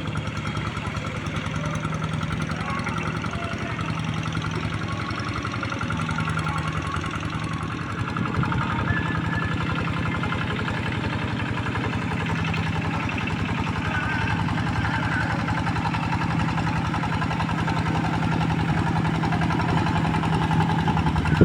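Two-wheel hand tractor's engine running steadily while pulling a moldboard plough through soft, deep paddy mud, a little louder from about eight seconds in.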